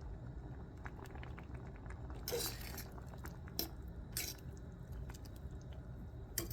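A person chewing a mouthful of soup, with a few short soft mouth and spoon sounds. The most marked is a brief noise about two and a half seconds in. A low steady hum sits underneath.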